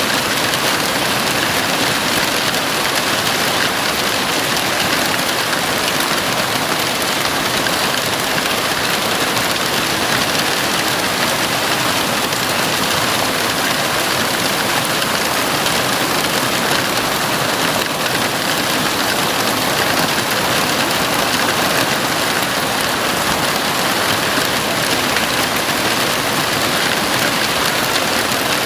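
Heavy rain falling steadily on a house roof: a dense, even hiss of drops with no thunder.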